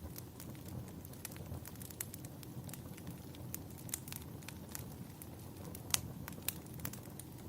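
Wood fire burning in a fireplace: a low steady rumble of the flames with frequent irregular crackles and pops, two sharper pops a little before the end.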